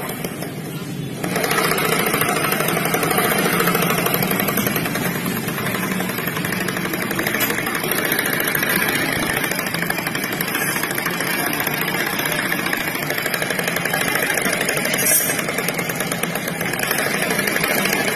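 Automatic scooter engine and CVT running steadily, with a short sharp click about fifteen seconds in. It is the rough CVT noise that the uploader puts down to worn bearings, final-drive gears or rollers.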